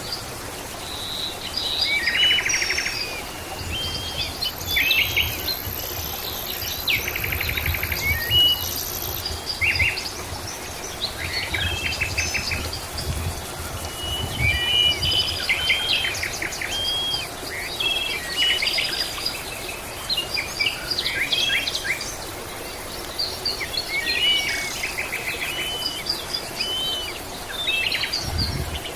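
Several songbirds chirping and trilling, short overlapping calls, over a faint steady background hiss.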